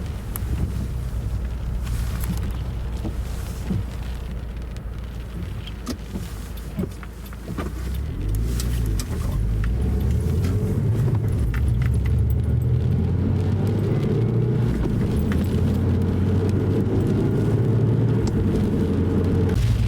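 Car engine and road noise heard from inside the cabin as the car pulls away and accelerates. The engine note changes in steps, and the sound grows louder about nine seconds in. Small clicks and rattles come through the first half.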